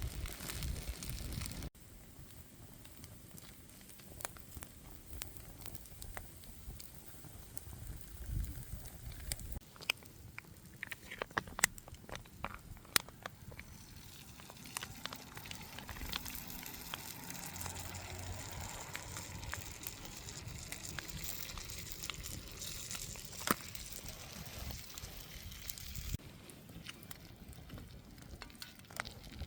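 Wood fire crackling, with a steady hiss and scattered sharp pops.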